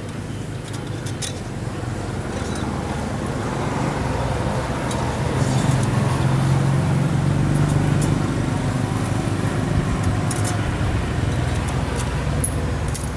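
An engine running steadily, growing louder toward the middle and easing off toward the end.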